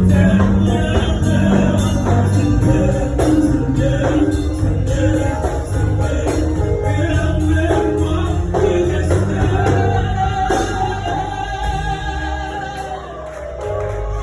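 Gospel praise song: singing over a band with a steady bass line and regular percussion.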